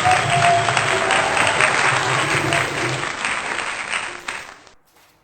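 Applause, a dense clapping crackle that fades out about four and a half seconds in.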